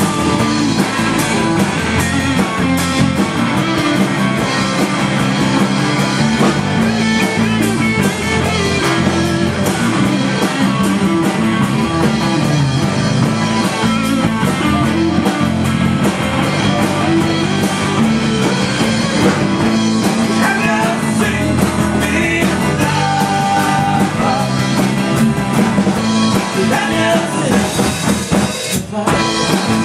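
Live rock band playing, with electric guitar and drum kit and some singing. There is a brief break in the music just before the end.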